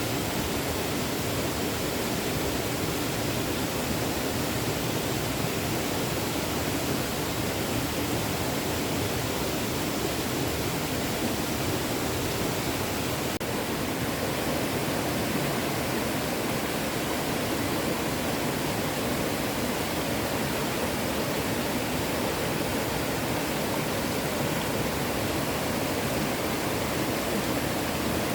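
Small stream flowing: a steady, even rush of running water.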